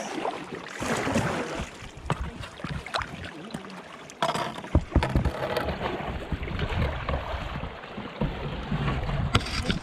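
Paddling a small canoe through moving water at a fish pass: water splashing and rushing around the hull, with several sharp knocks scattered through.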